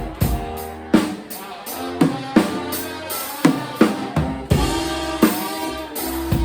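Live band playing a song, the drum kit's kick and snare hitting a steady beat over bass and sustained chords.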